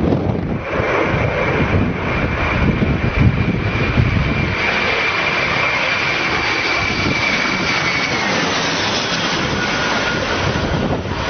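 Jet aircraft engines running over a loud rushing noise, with a steady high whine that falls in pitch about eight seconds in.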